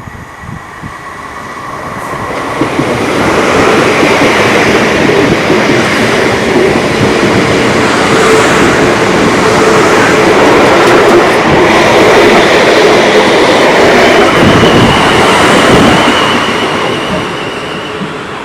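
A train passing along the track: it grows louder over the first few seconds, stays loud with wheel rumble and rail clatter, a steady whine coming in near the end, then fades away.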